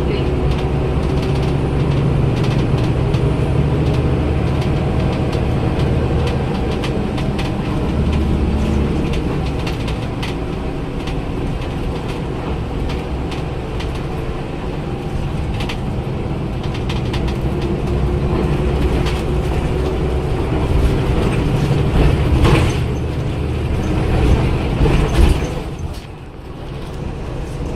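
Daewoo BS106 city bus's Cummins ISL Euro 6 inline-six diesel engine running as the bus drives, its note rising and falling. The sound drops sharply near the end.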